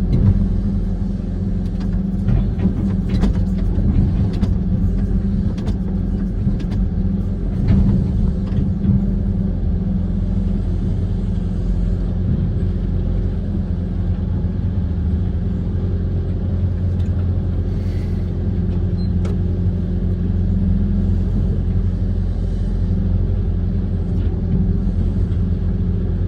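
Kobelco SK130 amphibious excavator's diesel engine running steadily under work, with scattered knocks in the first several seconds.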